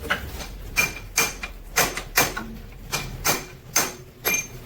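A run of about nine sharp metal clinks and knocks at uneven spacing, several with a brief high ring: hand tools and steel parts striking one another while the engine is taken apart.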